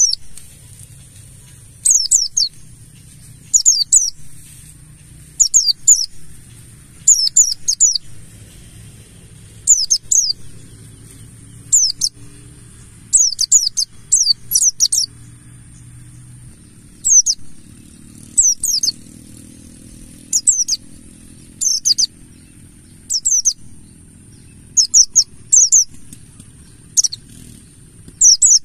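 Buxtoni white-eye (pleci) calling: short, loud bursts of quick, high, downward-sweeping notes, a burst every second or two. It is a lure recording, played to get other white-eyes singing.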